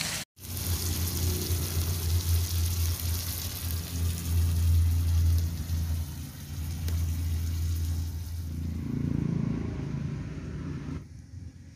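Sliced onions and dried red chillies sizzling in hot oil in a kadai over a wood-fired clay stove, under a steady low rumble. The sound falls away shortly before the end.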